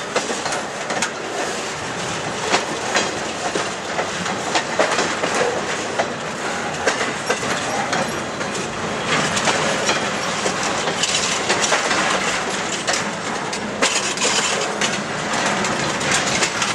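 Circus train's railcars rolling slowly past, steel wheels clacking over the rail joints at an uneven pace amid a steady rumble.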